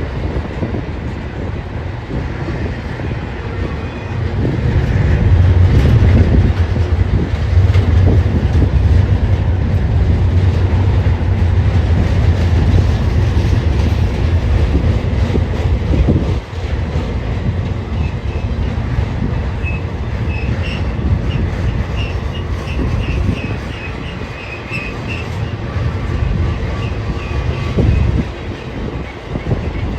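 A BNSF train rolling past with a heavy low rumble and wheels clicking over the rail joints. In the second half, short repeated high squeals from the wheels join in.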